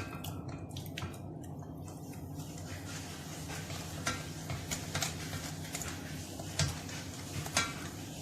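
A utensil clinking and scraping against a bowl as ground herb paste is stirred into chicken for marinating: scattered sharp clicks over a steady low hum.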